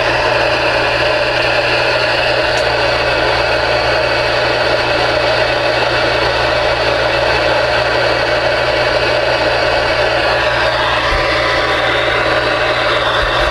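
Steady, loud noise from a CB radio's speaker: a hiss with a low hum under it, carrying no voice.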